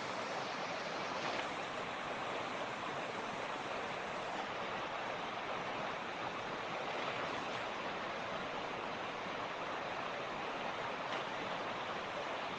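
Mountain stream (torrent) rushing and splashing over rocks, a steady, even sound of running water.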